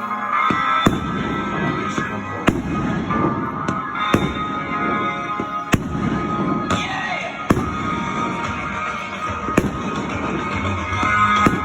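Fireworks going off, with a sharp bang every second or two amid a continuous rumble and crackle, over music playing.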